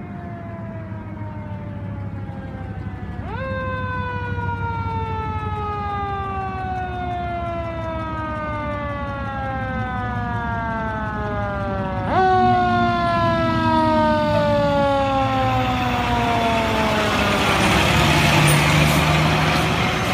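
Fire truck siren sounding, its pitch shooting up sharply twice and then sliding slowly down each time, over a steady low engine rumble. A growing rush of noise swells near the end.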